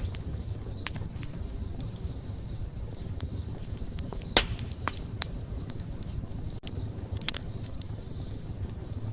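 Wood campfire burning with a low steady rumble and sharp crackling pops. The loudest pop comes near the middle, followed by a few smaller snaps.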